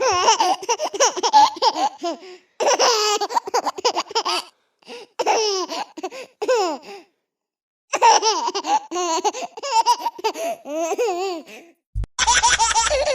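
A string of high-pitched comedy laughter sound-effect clips, each a few seconds long, separated by short silences. Near the end a new laughter clip starts with music underneath.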